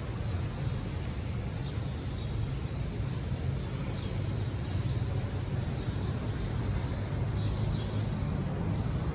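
Car being driven: a steady low engine and road rumble, heard from inside the cabin.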